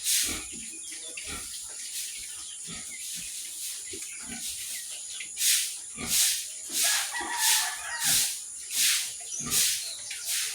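Pig making a run of short, breathy grunts, about one every two-thirds of a second in the second half, over a faint steady high hiss.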